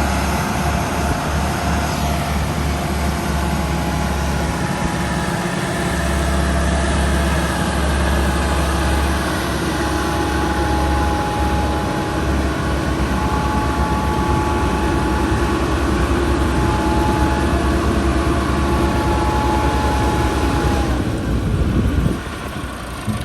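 Tractor diesel engine running steadily at a loud, even level with a low throb. The sound drops away sharply near the end.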